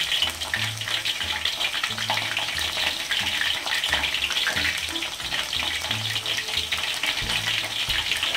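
Flour-coated chicken pieces deep-frying in hot oil in a wok: a steady, dense crackling sizzle.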